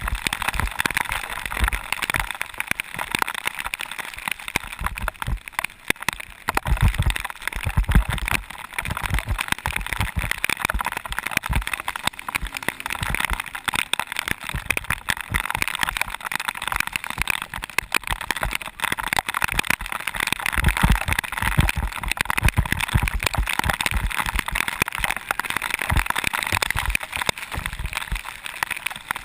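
Bicycle descending fast on a wet surface in the rain: a steady hiss of tyres and spray, with frequent irregular low thumps from bumps and wind on the camera.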